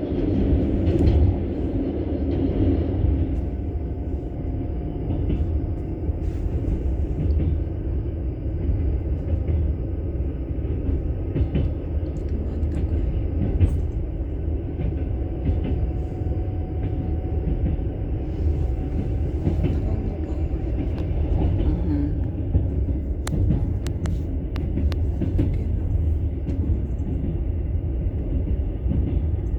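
A vehicle in motion: a steady low rumble of travel, with a few sharp clicks about two-thirds of the way through.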